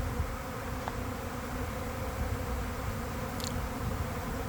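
Honeybee swarm buzzing steadily as it settles on a tree.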